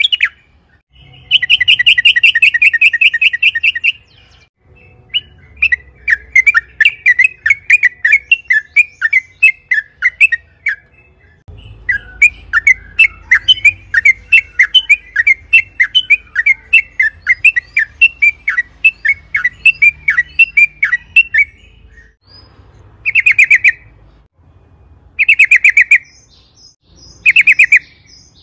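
Yellow-vented bulbul (trucukan) singing: long runs of rapid, bubbling chattering notes, then three short loud phrases near the end.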